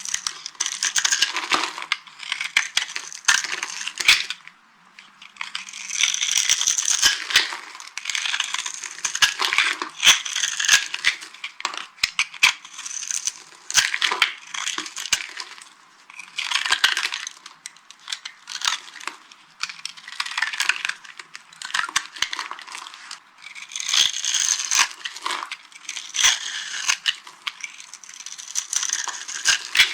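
Dry soap being crushed and crumbled by hand: dense, crisp crunching and crackling in repeated bursts with brief pauses between them.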